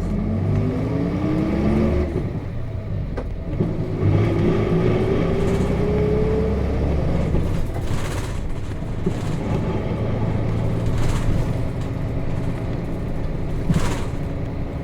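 Nissan Diesel KC-RM211GSN bus's FE6 inline-six diesel pulling away, heard from inside the cabin: the engine note rises for about two seconds, drops at a shift of the five-speed manual gearbox, rises again for about three seconds, then settles into steady running. Two short knocks come later on.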